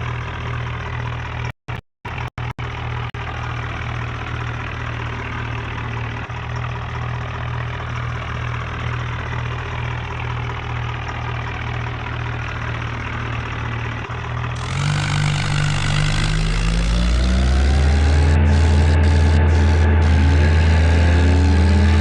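HMT tractor's diesel engine idling steadily, with the sound cutting out briefly a few times about two seconds in. About fifteen seconds in it revs up, rising in pitch and growing louder, then holds at higher revs.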